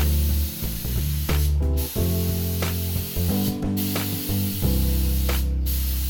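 Paint spray gun hissing as the fairings are sprayed, the hiss cutting off briefly three times, about every two seconds, between passes. Background music with changing bass notes plays underneath.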